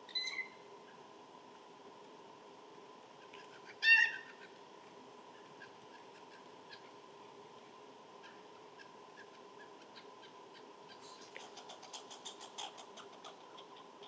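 Bird calls: a short harsh call just after the start and a louder one about four seconds in, followed near the end by a quick run of faint ticks.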